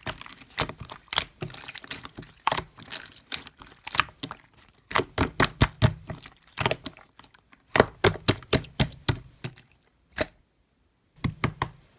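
Slime being squeezed, folded and poked by hand, giving quick irregular sticky clicks and pops, several a second, with a short pause near the end.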